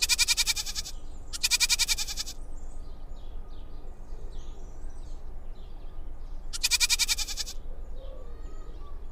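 Goat bleating three times in loud, quavering calls: two close together at the start, and a third about five seconds later.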